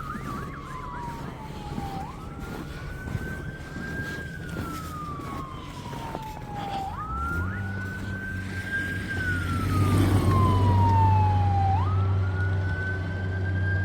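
Emergency vehicle siren on a slow wail, sweeping up and gliding back down about every five seconds. A steady low engine hum comes in about halfway through and stays.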